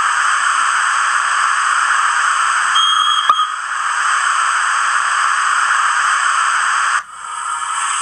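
Steam hiss from a Hornby HM7000 sound decoder's steam locomotive sound file, playing loud and steady through the model's small speaker. A brief click with a short tone comes a little over three seconds in, and near the end the hiss suddenly dips, then resumes with a changed tone.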